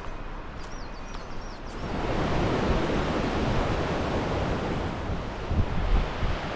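Wind gusting over the microphone outdoors: a rushing noise that swells about two seconds in and stays up, with low, uneven buffeting. Faint bird chirps sound early on.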